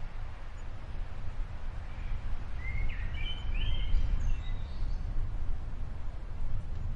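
Outdoor storm ambience: a steady, wavering low rumble, with a few short bird chirps near the middle.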